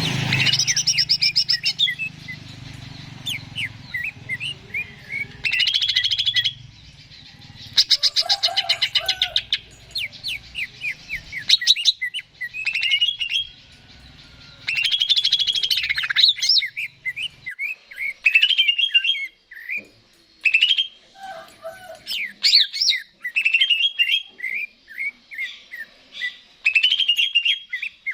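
Greater green leafbird (cucak ijo) singing a fast, varied song of chirps, whistled notes and buzzy rattles in phrases with short pauses between them.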